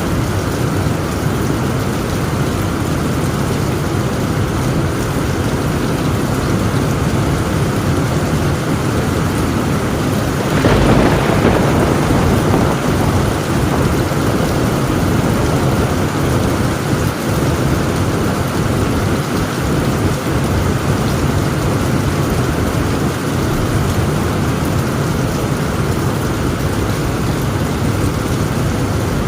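Torrential rain drumming steadily on a tin roof, with a burst of thunder about ten seconds in that fades into rumbling.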